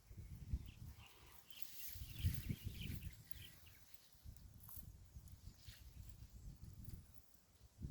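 Faint chirping animal calls over a low, uneven rumble.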